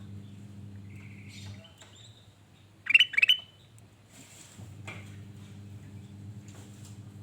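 Kutilang emas (bulbul) calling: two loud, quick calls about three seconds in, with fainter chirps before and after. A steady low hum runs underneath, dropping out for a few seconds around the loud calls.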